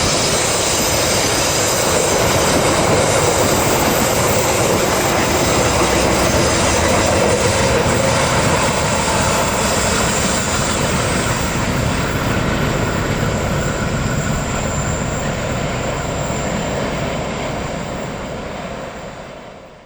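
Taksaka passenger train of Indonesian Railways running past, a loud, steady rumble and rush of locomotive and wheels on rails. It dies away over the last few seconds.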